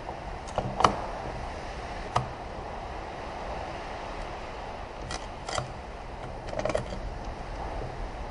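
Transmission parts being handled on a workbench: a few short clicks and knocks, the loudest about a second in, over a steady background hum.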